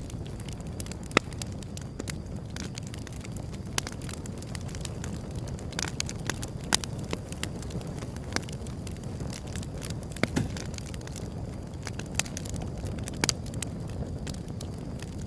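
Wood fire burning: a steady low rumble of flames with irregular sharp crackles and pops from the burning wood, a few of them louder than the rest.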